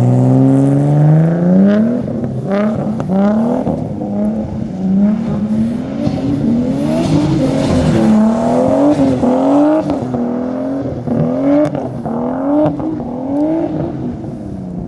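Nissan R32 Skyline GTS-t's turbocharged RB20DET inline-six revving hard while drifting on snow: it climbs steadily for the first couple of seconds, then rises and falls about once a second as the throttle is worked through the slides, and drops away near the end.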